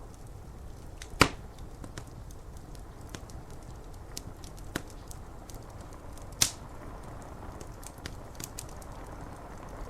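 Wood fire crackling, with scattered small ticks and two loud pops, one about a second in and one past the six-second mark, over a steady rain noise.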